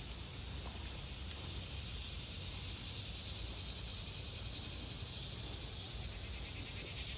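Steady high-pitched insect chorus trilling, growing louder near the end, over a low rumble.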